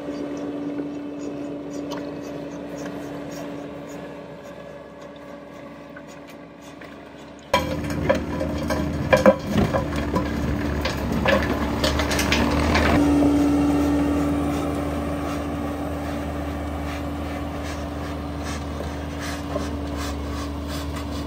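Skid-steer loader running with its hydraulic rotor attachment working stony soil, a steady engine note throughout. About seven seconds in the sound jumps louder, with a run of sharp clicks and knocks for several seconds as stones strike the rotor, then a steady heavier running.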